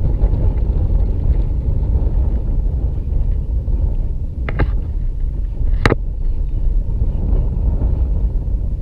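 Wind buffeting the camera microphone, a steady low rumble, with two sharp knocks about four and a half and six seconds in.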